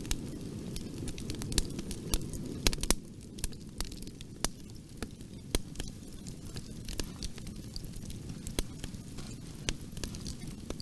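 Wood fire in a fireplace crackling, with irregular sharp pops and snaps over a low, steady rumble of flames. The pops come thickest in the first few seconds, then thin out.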